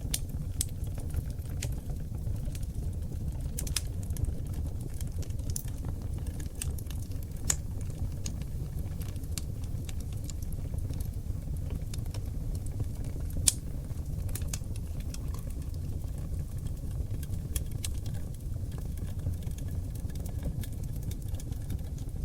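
Wood fire burning in a fireplace on oak logs: a steady low rumble of flames with irregular crackles and pops. The sharpest pop comes about halfway through.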